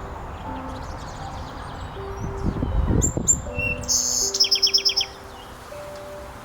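Songbirds chirping, with a fast repeated trill of about eight notes a second in the second half, over soft sustained music notes. A brief low rush comes just before the middle.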